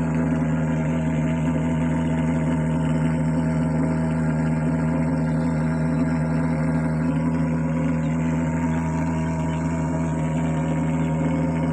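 Mosquito fogging machine engine running steadily, a continuous drone that holds one pitch.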